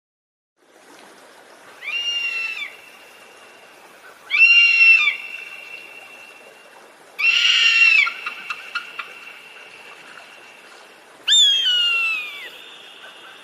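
A bird calling four times, each a high, shrill cry of under a second with a pitch that drops at its end; the last one slides down steeply.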